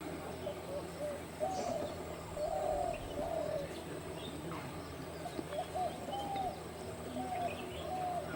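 A bird calling: a series of short, arched notes repeated irregularly, with fainter, higher chirps from other birds over a steady background hiss.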